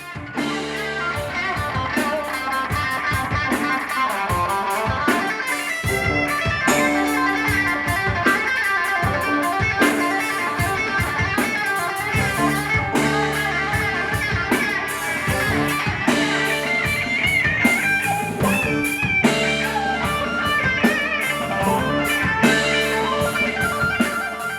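Rock band playing an instrumental passage: electric guitar over a drum kit, with no singing.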